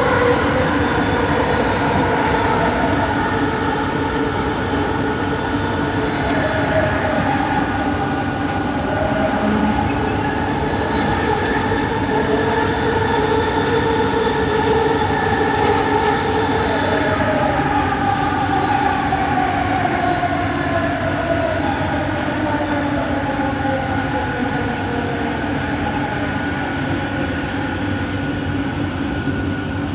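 Bombardier Innovia ART 200 train heard from on board: the running noise is overlaid by the whine of its linear induction motor drive, several tones that slide downward in pitch through the middle of the stretch.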